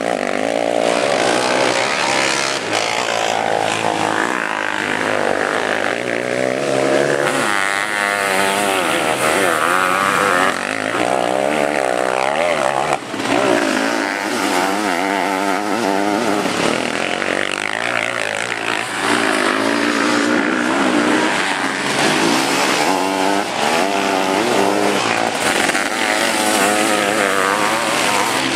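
Several sidecarcross racing outfits' engines running hard, revving up and down over and over as they ride the dirt motocross track.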